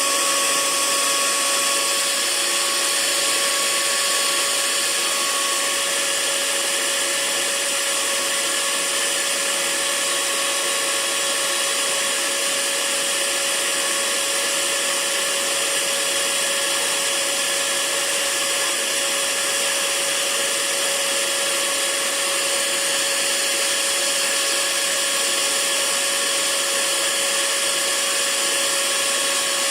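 Hair dryer running steadily as white noise: an even rushing hiss with a constant hum underneath, unchanging throughout.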